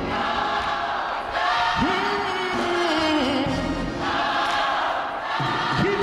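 Gospel choir and congregation singing over instrumental music, with one voice sliding up into a held note about two seconds in.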